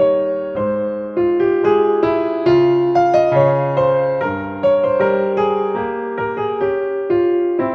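Slow, gentle piano music: single melody notes and chords struck about every half second to a second, each fading away as it rings.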